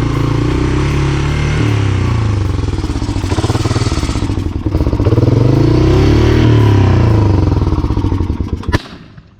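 1987 Honda TRX 250 ATV's single-cylinder four-stroke engine running at a high idle, its revs rising and falling twice. It then winds down and dies, with one sharp bang like a gunshot as it shuts off.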